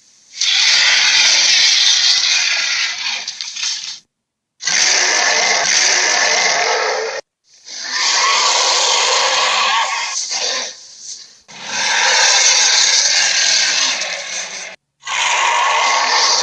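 Gorilla sound effects: about five rough, noisy calls in a row, each three to four seconds long, cut off sharply with brief silences between them.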